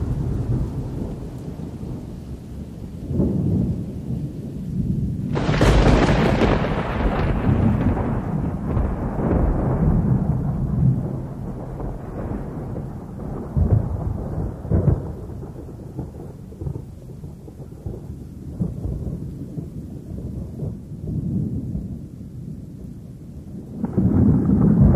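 Thunderstorm: low rolling thunder, with a sharp thunderclap about five seconds in that rumbles away over several seconds, and another loud roll starting near the end.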